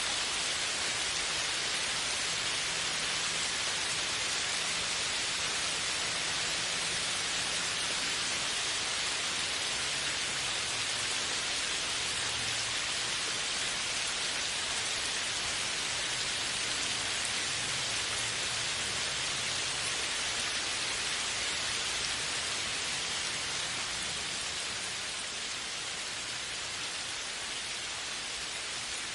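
Steady, dense rainfall, an even hiss of many drops on surfaces, easing slightly near the end.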